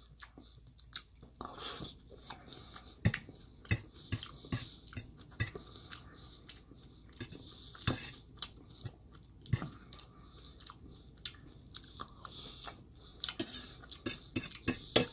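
Close-up chewing and mouth sounds of a man eating rice and chicken curry, with a metal fork clicking and scraping against a stainless steel bowl as he scoops. A quick run of clicks comes near the end.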